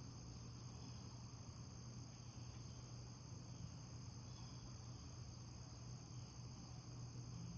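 Faint, steady chorus of crickets over a low, even hum.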